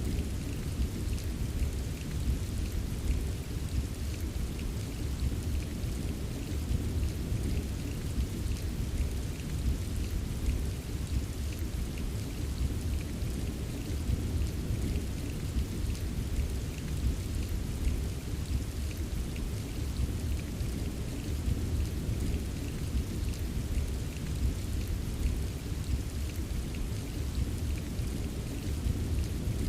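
Steady rain with many small drop taps, over a constant deep low rumble.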